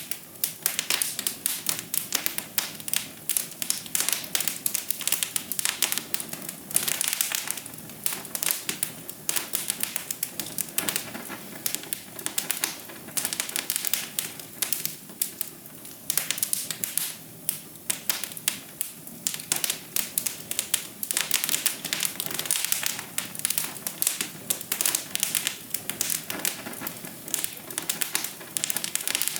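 Wood fire crackling in a fireplace: dense, irregular pops and snaps that go on without a break.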